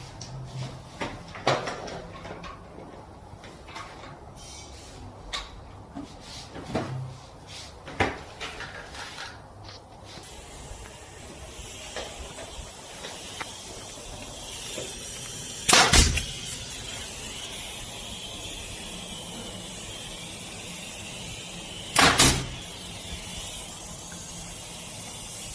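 Scattered knocks and clicks of wall panels being handled and pressed into place, with two loud knocks later on. A steady hiss comes in about ten seconds in.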